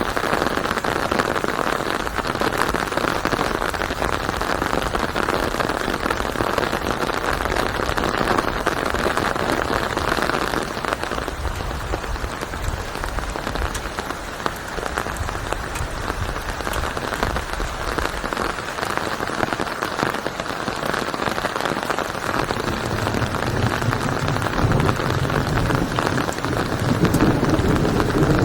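Steady rain falling on a surface, an even hiss of many drops. A low rumble of thunder swells in beneath it near the end.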